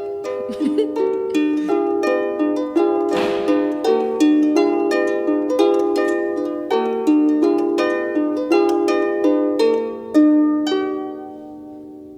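Harp plucked in a song's instrumental introduction: a steady flow of overlapping notes. A last chord about ten seconds in is left to ring out and fade.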